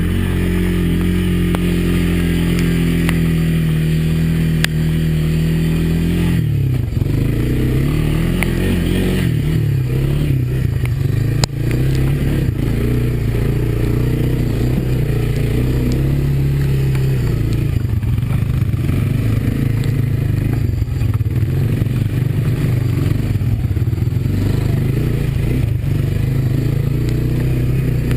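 Honda ATV's single-cylinder four-stroke engine running under way, holding steady revs at first, dropping and picking up again about six seconds in, then rising and falling with the throttle. There is one sharp knock about eleven seconds in.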